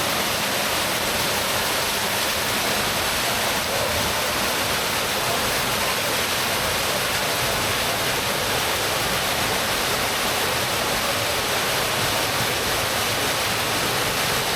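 Waterfall rushing close by: a steady, even noise of falling water that does not change.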